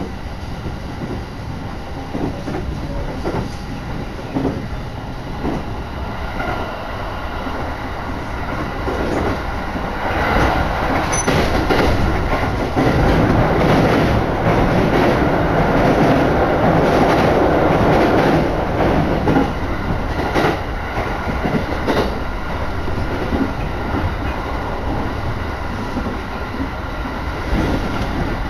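Running noise of a moving train heard from inside the passenger car: a steady rumble with wheels clacking over rail joints, growing louder for several seconds in the middle before settling back.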